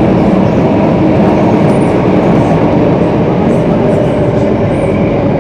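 Singapore MRT Circle Line train running at speed, a steady loud rumble of wheels and rails with faint high squeaks now and then.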